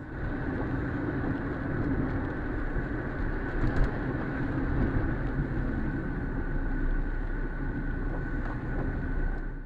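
Steady car road and engine noise heard from a dash camera, with a constant thin whine over it and a brief knock about four seconds in.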